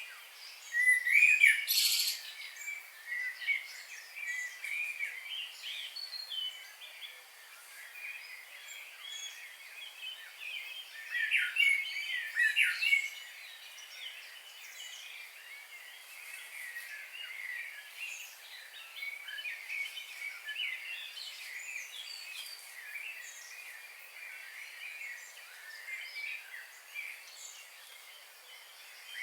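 Several songbirds chirping and singing at once, with short warbled phrases and calls; the loudest bursts come about a second in and again around eleven to thirteen seconds in, over a faint steady background hiss.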